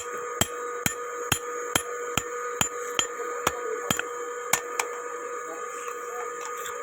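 Blacksmith's hand hammer striking metal on an anvil in an even rhythm, about two blows a second, stopping about five seconds in. A steady ringing hum runs underneath.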